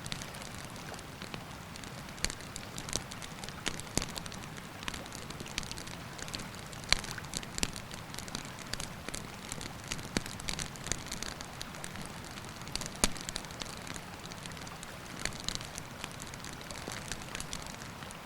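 Wood campfire crackling with frequent sharp pops, over the steady rush of a river.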